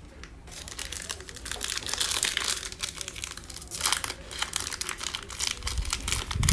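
A 2020 Mosaic football trading-card pack's wrapper being torn open and crinkled in the hands: a dense crackling rustle that starts about half a second in. A short low thump comes near the end.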